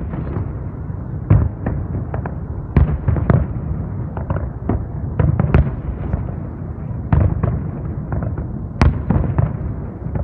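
Fireworks display: aerial shells bursting in a quick, irregular series of loud bangs, several a second at times, over a continuous rumble of distant explosions.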